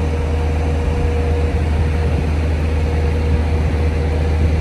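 Semi-truck's diesel engine idling, a steady low drone with a faint constant hum above it.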